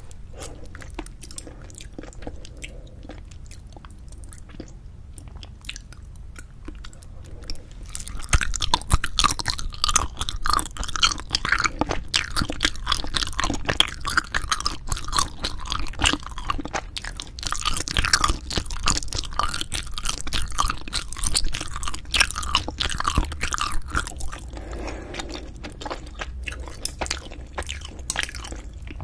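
Close-miked chewing of cheese-topped Korean braised spicy chicken (jjimdak), with quick wet mouth clicks. Soft at first, louder and busier from about eight seconds in, easing off again near the end.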